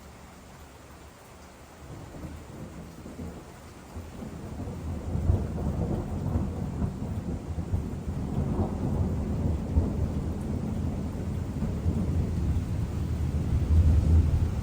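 Rolling thunder: a low rumble that starts about two seconds in, grows into a long, loud roll from about five seconds, and swells again near the end.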